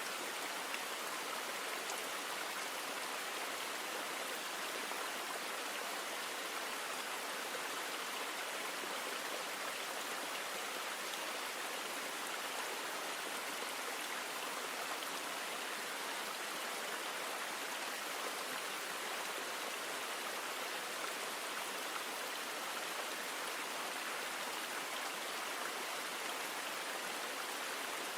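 River water flowing: a steady, even hiss of moving water with little deep sound and no breaks.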